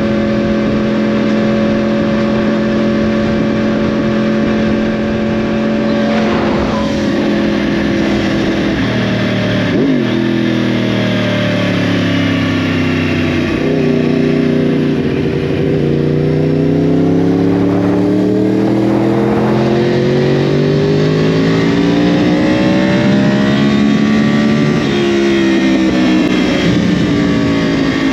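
2010 Yamaha R1's crossplane inline-four running through a Yoshimura exhaust while being ridden. The engine holds a steady note for about six seconds, then the revs fall, climb again and ease off, with a gear change near the end.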